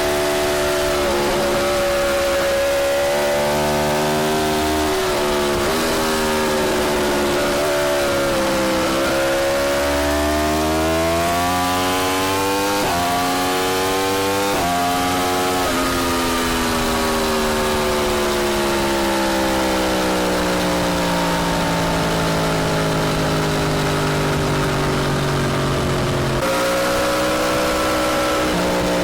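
Yamaha R1 inline-four sport bike through an Akrapovic exhaust, ridden hard: the engine note climbs and drops with the throttle and gear changes, then falls slowly in pitch for several seconds as the bike slows, and picks up again near the end.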